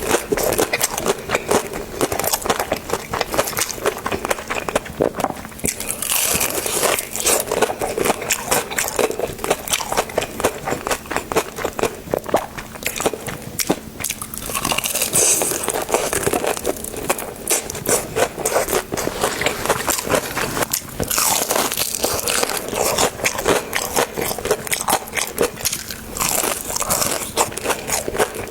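Close-miked mukbang eating sounds: a steady run of crisp, crunchy bites and chewing with crackling clicks.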